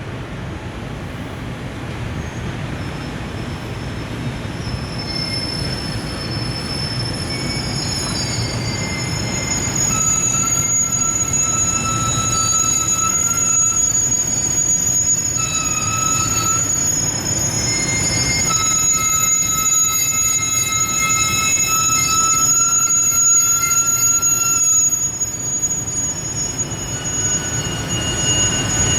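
Container freight train behind an EF510 electric locomotive pulling out slowly, its wheels squealing in several steady high tones that come and go over a low rumble that grows louder over the first ten seconds.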